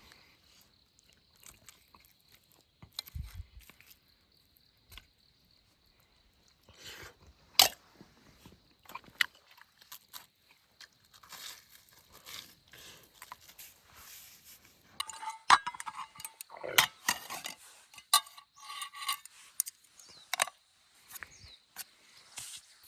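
Scattered clicks, knocks and crunches of camp gear being handled, sparse at first and coming thick and fast about two-thirds of the way in.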